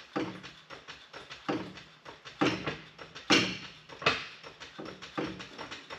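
Floor jack being rolled and set under the transmission: a string of irregular metal clanks and knocks, about one a second, the loudest a little past halfway.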